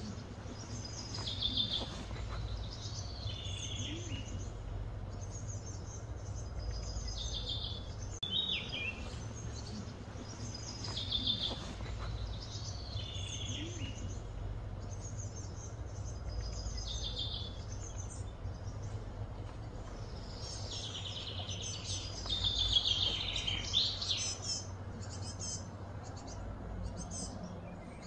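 Birds calling in short, repeated phrases every two to three seconds, with a busier, louder run of calls about three-quarters of the way through, over a steady low hum.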